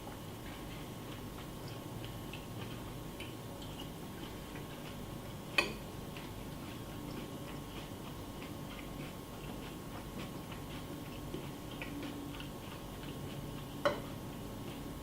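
Cereal being eaten: faint irregular small clicks, and a spoon clinking against the bowl twice, about eight seconds apart.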